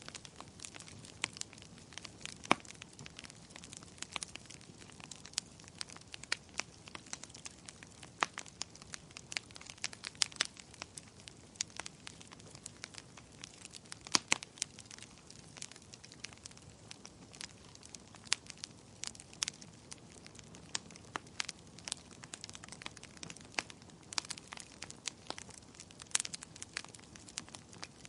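Wood fire crackling in a fireplace: irregular sharp pops and snaps, several a second, over a soft steady hiss, with a few louder snaps scattered through.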